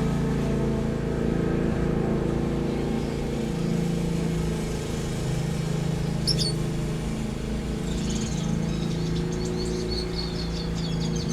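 A steady low machine hum with several held tones runs throughout. Over it come a single high bird call about six seconds in and a run of quick small-bird chirps from about eight seconds on, typical of aviary finches.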